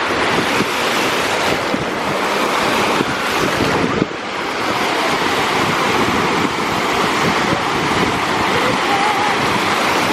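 Ocean surf washing onto a beach, with steady wind noise on the microphone.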